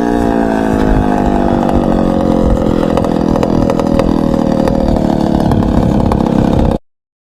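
Motorcycle engine running, its pitch slowly falling; the sound cuts off abruptly near the end.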